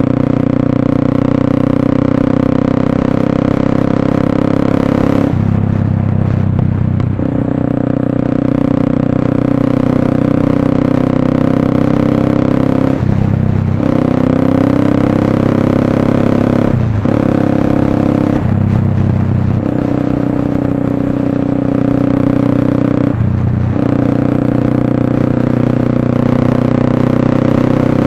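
Motorstar Cafe 400's single-cylinder engine running through an SC Project slip-on exhaust, a steady exhaust note whose pitch dips briefly and comes back several times.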